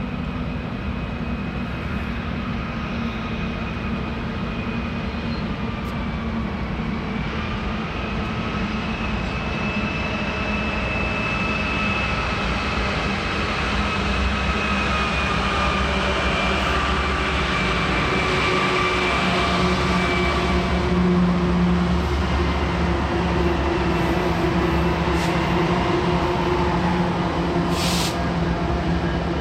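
Union Pacific diesel-electric locomotives arriving slowly at the head of an intermodal train. The engine rumble grows steadily louder as they approach and pass, over a steady high whine. There is a single sharp clank near the end.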